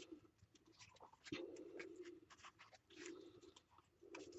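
Near silence with faint scratches and light ticks of paper being handled and pressed onto a page.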